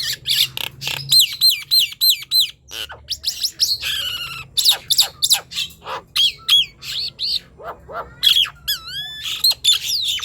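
A Nias hill myna sings in full voice with a fast, varied run of loud whistles and sharp calls. Many short hooked notes repeat in quick series, and a few longer sliding whistles come about nine seconds in.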